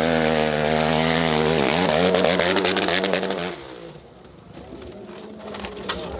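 A dirt bike engine running hard at high revs. Its pitch dips briefly and climbs again, then the sound drops away sharply about three and a half seconds in, leaving a quieter engine sound and scattered clicks.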